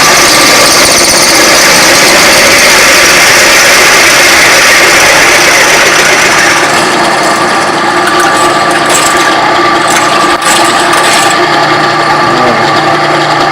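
Electric drill boring a 3/8-inch hole through a metal part, a steady grinding, whirring run with the bit under load. About halfway through the higher hiss drops away, as the bit nears breaking through the far side.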